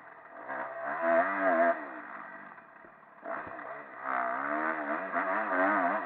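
Motocross motorcycle engine revving up and easing off as the throttle opens and closes, its pitch climbing and dropping. It goes quiet briefly about three seconds in, then picks up again and revs hard to the end.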